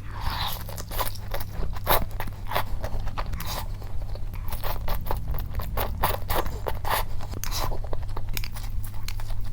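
Close-miked eating sounds: chewing of rice with grilled pork and fried egg, many irregular small clicks and smacks, over a steady low hum.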